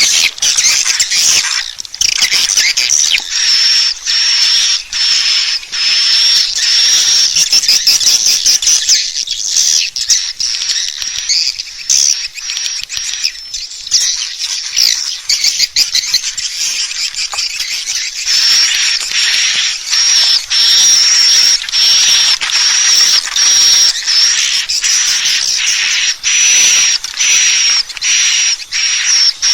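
Swiftlet lure call: a loud, unbroken stream of high, twittering swiftlet chirps. From about two-thirds of the way in, a sharp high chirp repeats roughly once a second over the twitter.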